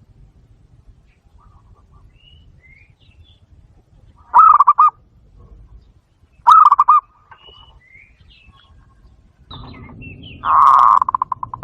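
Zebra dove call, played from a Bluetooth speaker as a lure: three bursts of rapid staccato cooing notes. Two short bursts come about two seconds apart, then a longer one near the end that breaks into quick stuttering notes. Faint high chirps of small birds sound between them.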